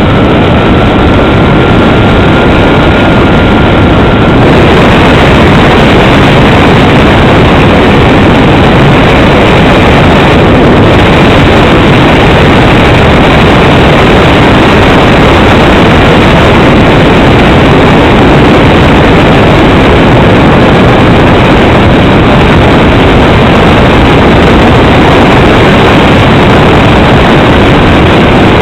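Loud, steady, noisy roar of a Cessna 310's engines and rushing air on a landing approach, heard close on the aircraft's own recording. A thin steady whine over it stops about four seconds in.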